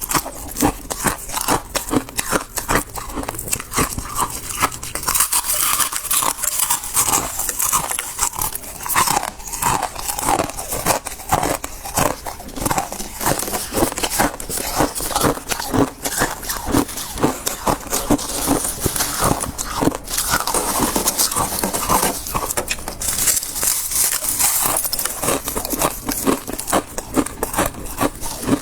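Close-up crunching of soft freezer frost being bitten and chewed, a rapid, irregular run of crisp crunches.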